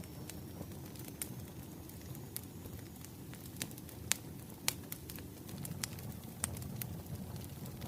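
Wood fire crackling: irregular sharp pops and snaps over a steady low rumble of the burning logs, with a couple of louder pops around the middle.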